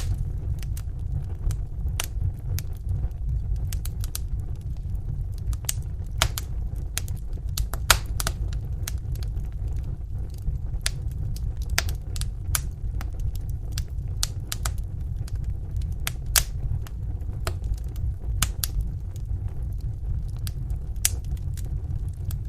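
Wood fire in a fireplace burning, with a steady low rumble and irregular sharp pops and crackles of burning logs, a few louder pops scattered through.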